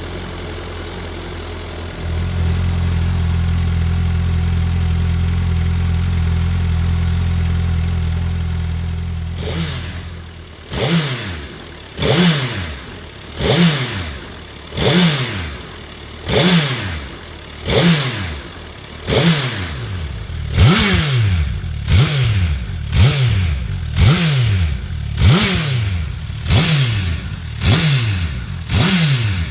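2021 Suzuki Hayabusa's inline-four engine idling steadily through its exhaust, getting louder about two seconds in. From about ten seconds in, the throttle is blipped over and over, roughly once every one and a half seconds, each rev rising quickly and then falling back.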